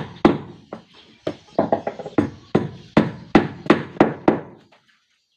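Repeated hand-tool blows on wood, about three strikes a second with a short ring after each, stopping about four and a half seconds in.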